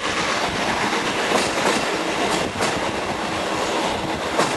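Train hauled by steam locomotive BDZ 46.03 running along the line: a continuous rumble with wheels clicking over the rail joints at irregular intervals.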